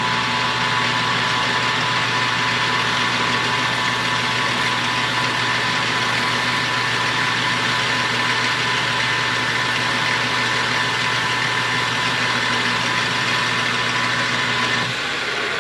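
Electric motor of a shop machine tool running steadily at speed, with a high whine and a low hum. The low hum drops out near the end as the machine shuts down.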